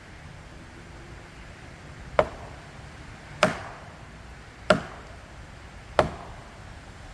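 Four heavy blows struck into wood, evenly spaced about a second and a quarter apart, each short with a brief ring after it.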